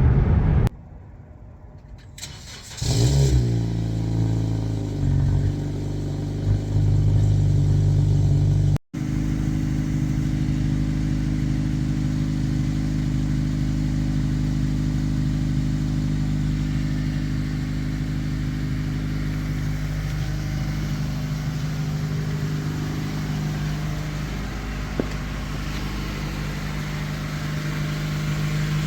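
9th-generation Honda Civic engine with its muffler deleted starts up about three seconds in, flares and drops back, then runs at a steady idle after a brief cut. The exhaust has a low tone, which the owner calls aggressive.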